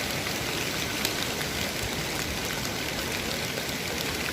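Steady rush of a waterfall mixed with rain falling.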